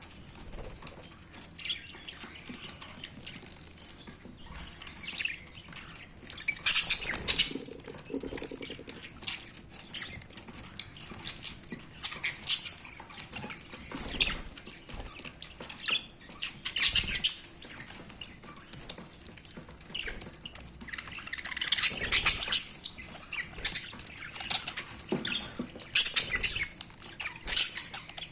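Budgerigars bathing: irregular bursts of splashing and wing-flapping in water every few seconds, with faint chirps between.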